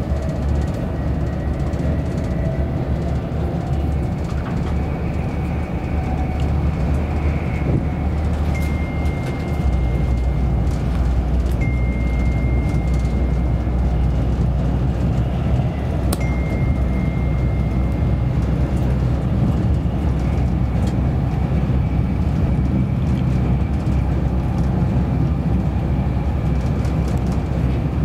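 Steady low rumble and running noise inside a Virgin Trains Class 390 Pendolino electric train carriage travelling at speed. The low drone grows a little louder about ten seconds in, and a thin high whine comes and goes through the middle.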